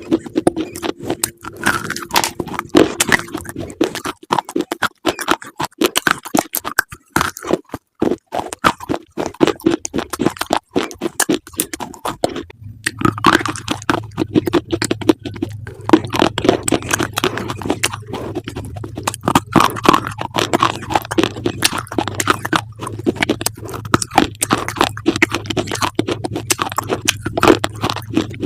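Close-up crunchy chewing: dense, rapid crackling crunches of crisp food being bitten and chewed. A low steady hum joins in about halfway through.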